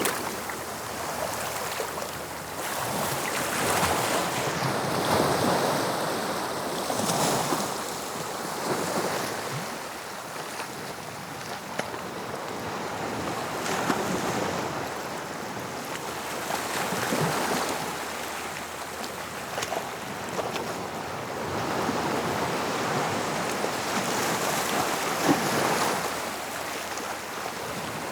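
Sea waves breaking and washing onto the shore in slow swells every few seconds, with wind on the microphone.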